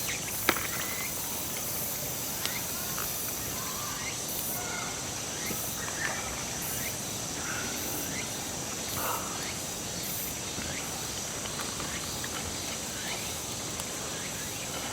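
Insects trilling steadily, with a sharp click about half a second in and scattered short faint chirps.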